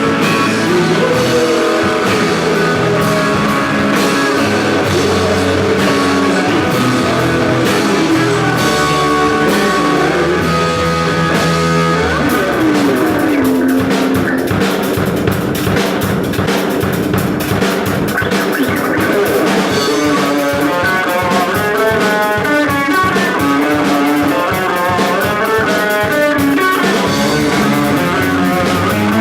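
Rock band playing live, an instrumental passage of guitar and drum kit with no singing. About twelve seconds in the low end drops away and the guitar plays a sliding figure, then quick picked notes.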